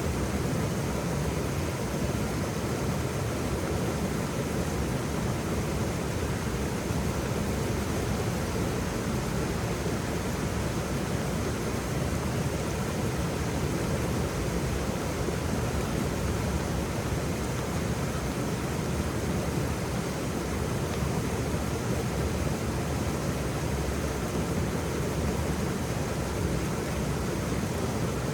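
Waterfall: a steady, even rush of falling water, strongest in the low end, without change.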